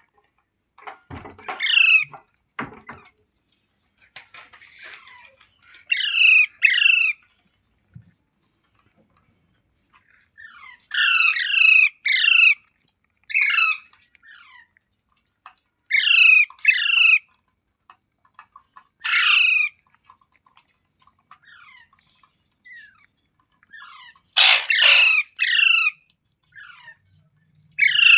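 Ringneck parakeet squawking: short, harsh, downward-sliding calls given in quick clusters of two to four, repeated every few seconds.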